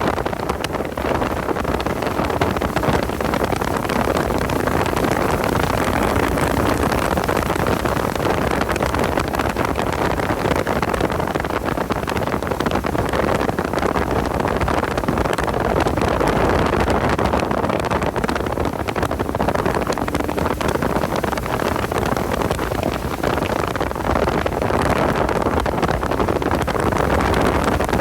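Porsche 986 Boxster's flat-six engine running hard at track speed, mixed with steady wind noise on the microphone.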